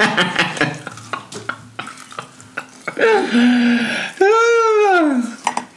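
Close-up crunching and chewing of crispy deep-fried battered seafood, many sharp crackly clicks. Near the end, a voice makes two drawn-out sounds, the second rising and then falling in pitch.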